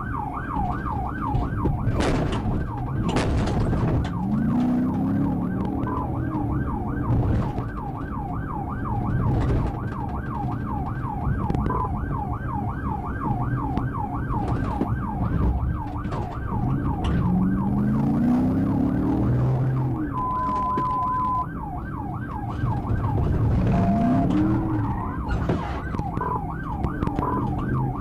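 Police cruiser siren on a fast yelp, its pitch sweeping up and down several times a second without a break. Underneath, a lower tone rises three times, and a short steady beep sounds once about twenty seconds in.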